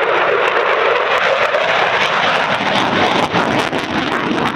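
RAF Eurofighter Typhoon FGR4 jet flying a display, the noise of its twin Eurojet EJ200 turbofan engines loud and steady.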